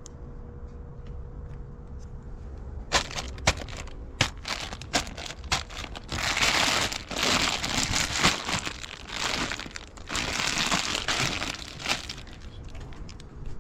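Trash being rummaged through by hand: a few sharp knocks and clicks about three seconds in, then several seconds of dense crinkling and rustling of plastic bags and packaging.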